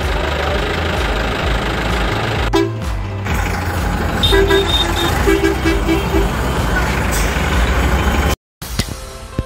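A vehicle engine running steadily, with a horn sounding a quick run of short beeps about halfway through. Near the end it cuts off suddenly and music follows.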